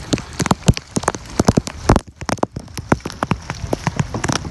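Large raindrops striking close to the microphone, a dense, irregular run of sharp taps that is briefly muffled about two seconds in.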